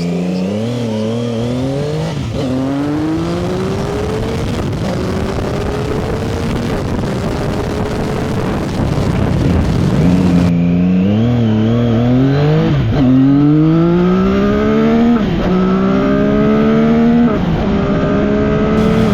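CFMoto 675SS sport bike's three-cylinder engine pulling hard through the gears. The pitch climbs on each gear and drops sharply at every upshift, with several quick shifts in the second half. Wind rushes steadily throughout.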